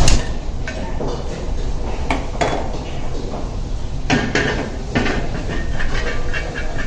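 Restaurant kitchen clatter: metal pots, pans and utensils knocking and clinking at irregular intervals over a steady low rumble.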